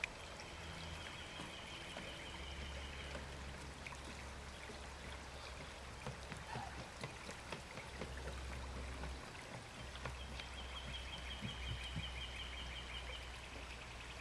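Outdoor ambience: a steady, faint rush like running water, with low wind rumble on the microphone. Twice, a high trill of rapidly repeated notes sounds for about three seconds, once near the start and once near the end.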